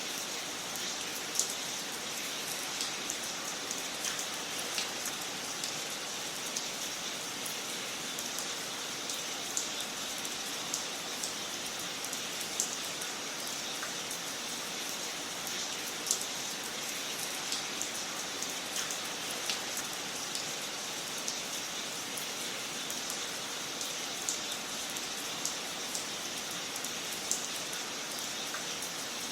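Fire crackling in a fireplace: a steady hiss with irregular sharp pops and snaps scattered throughout.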